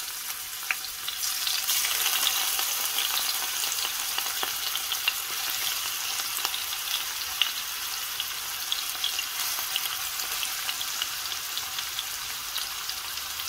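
Marinated chicken necks sizzling and crackling in hot vegetable oil in a frying pan, with scattered sharp pops of spattering fat; the sizzle grows louder about a second in.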